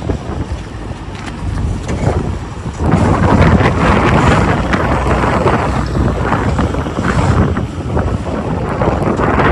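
Wind buffeting the microphone, a rough rumbling noise that grows louder from about three seconds in.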